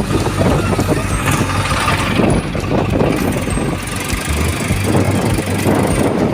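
Diesel engine of heavy machinery running steadily, with a constant low hum under a rough mechanical clatter.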